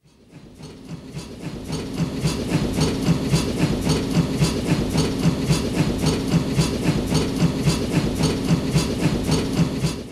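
Train sound effect: a rhythmic chugging with a hiss on top, about five beats a second. It swells up from silence over the first couple of seconds, then holds steady and cuts off abruptly at the end.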